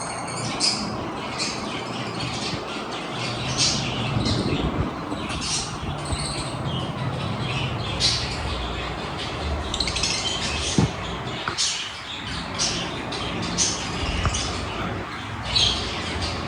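Lovebirds calling, with short high-pitched calls coming one after another every second or so over a steady background noise.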